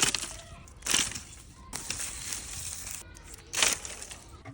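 Dry twigs and leaves crunching and rustling as branches are handled, with sharp crunches at the start, about a second in and near the end, and a longer rustle in the middle.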